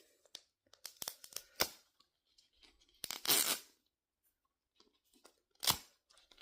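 Plastic toy packaging being handled and torn open by hand: scattered small crackles and clicks, with short tearing sounds about three seconds in and again near the end.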